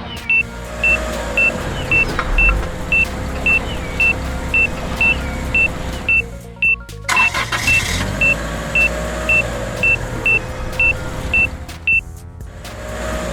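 Vehicle sound effect: an evenly spaced series of short high beeps, about two a second, like a truck's reversing alarm, over engine noise; the beeps stop near the end.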